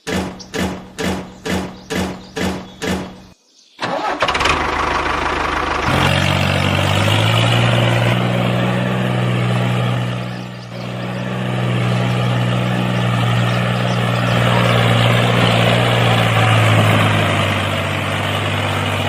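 An engine cranking in rhythmic pulses, about two and a half a second, which stop suddenly after about three seconds. After a short gap it catches with a burst of noise and settles into a steady running hum, dipping briefly about halfway through.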